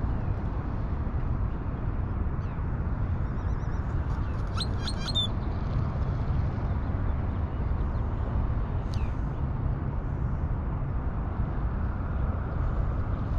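Birds chirping now and then over a steady low rumble: a quick run of chirps about five seconds in and a single falling whistle about nine seconds in.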